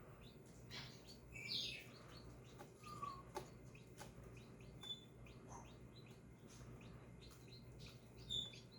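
Newly hatched guinea fowl keets peeping faintly and sporadically, short high chirps over a low steady hum.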